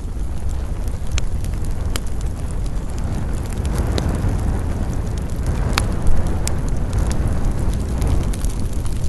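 Campfire burning: scattered sharp crackles and pops over a steady low rumble, with one louder pop about two-thirds of the way through.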